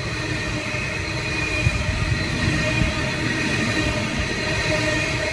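Coal train's hopper wagons rolling past on the rails: a steady low rumble of wheels on track, with a thin high squeal from the wheels on top. A couple of brief knocks come about two and three seconds in.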